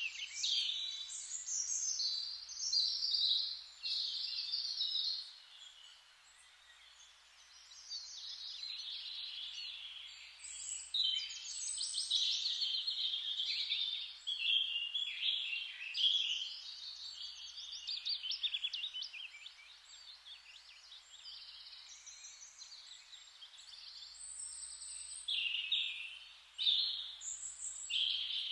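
Several songbirds singing at once, overlapping high chirps and rapid trills that come and go, with a brief lull a few seconds in, over a faint steady hiss.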